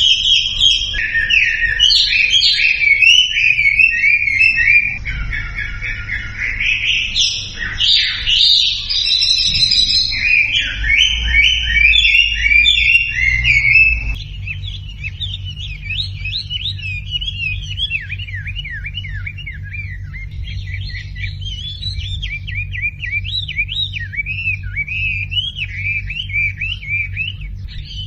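Wambi birdsong: a loud, dense run of chirps and whistled phrases, then about halfway a quieter stretch of quick, repeated down-slurred notes over a low steady hum.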